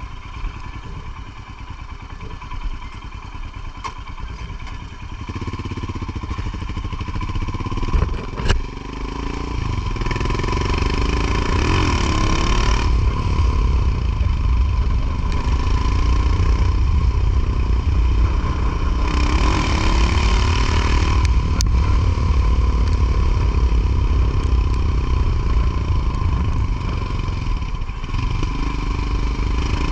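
Motorcycle under way: engine and road rumble grow louder from about five seconds in and stay loud, with a couple of sharp knocks around eight seconds.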